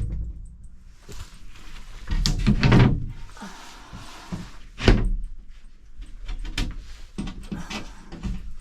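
Knocks and thuds of a door being handled. The loudest sharp knock comes about five seconds in, with a cluster of thuds before it and smaller clicks and taps after.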